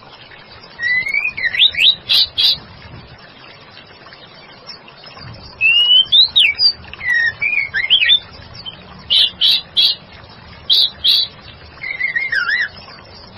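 Female white-rumped shama singing: four bursts of rising and falling whistled notes mixed with sharp chips, with short pauses between them.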